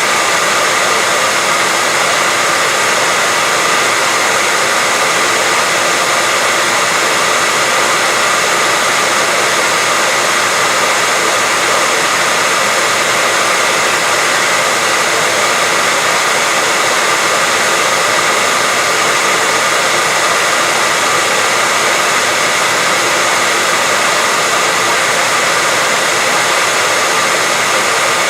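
Continuous white noise: a loud, even, unchanging hiss, stronger in the highs than in the lows, with a faint steady whine running through it.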